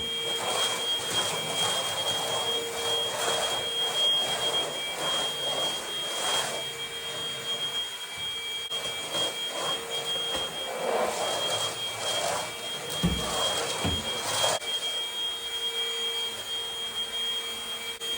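Vacuum cleaner running with a steady whine, its rushing air noise swelling and easing again and again. Near the end there are two dull knocks.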